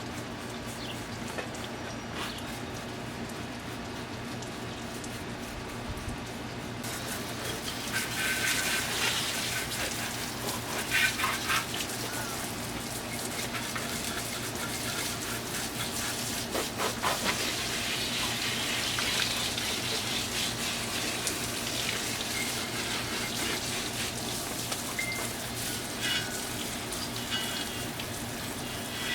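Water from a hose spraying and splashing on a salt-covered pitbike as it is rinsed down. The spray starts about seven seconds in and comes in stronger bursts.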